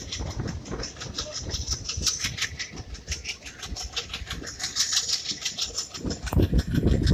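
Running noise of a moving passenger express train heard from an open coach doorway: wheels clicking and rattling on the track under a steady rush of noise, which grows louder and deeper about six seconds in.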